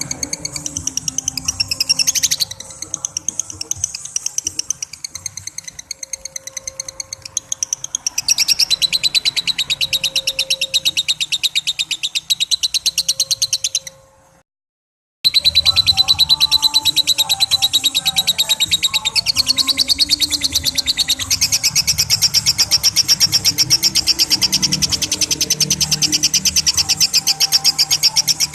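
Lovebird giving its long 'ngekek' call: a very fast, high-pitched chattering trill held on for many seconds. It stops dead for about a second about halfway through, then goes on louder.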